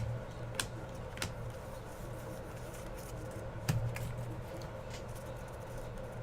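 Baseball trading cards being handled and flipped through by hand, with a few soft clicks and snaps over a steady low hum.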